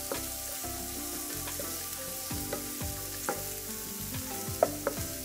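Sliced red onions and minced garlic sizzling in coconut oil in a non-stick wok, stirred with a wooden spatula. The spatula knocks against the pan a few times, loudest near the end.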